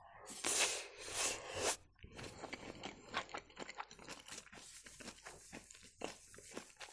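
Close-up chewing of grated beetroot salad, soft crunches and small wet clicks. A paper napkin rustles and crinkles in a few bursts in the first couple of seconds.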